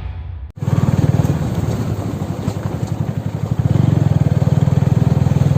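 Motorcycle engine running with an even low putter, growing louder about three and a half seconds in. A fading tail of music cuts off sharply half a second in.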